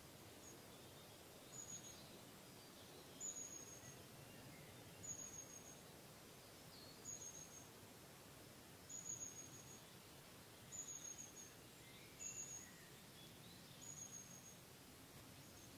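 A small bird's thin, high-pitched call, a short slightly falling note repeated eight times about every two seconds, faint over a low background hiss.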